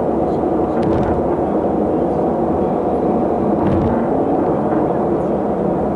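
Steady low rumble of a moving vehicle: engine and road noise, with a few faint ticks.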